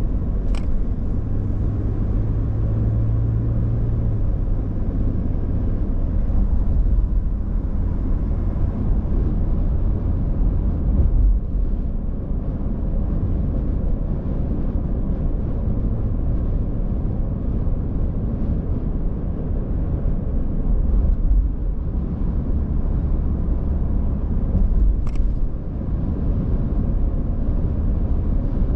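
Car driving on the road: a steady low rumble of engine and tyre noise, with two brief clicks, one just after the start and one near the end.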